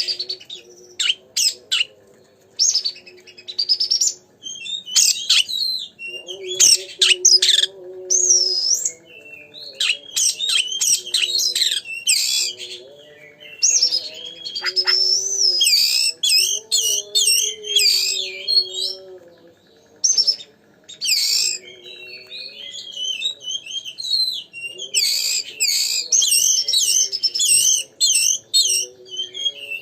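Oriental magpie-robin (kacer) singing in full voice: bursts of rapid, varied whistles, trills and chirps with short pauses between phrases. Fainter steady lower tones run underneath.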